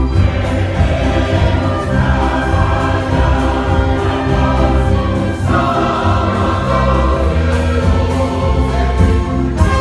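Large church choir singing a Portuguese gospel hymn in sustained full chorus.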